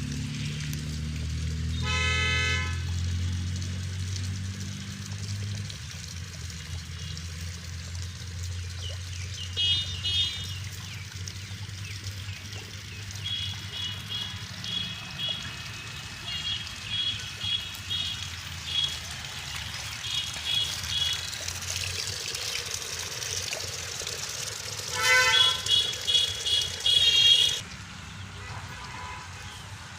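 Outdoor background with a low engine rumble and a short horn toot about two seconds in. Short high pips repeat through the middle, and a louder burst near the end cuts off suddenly.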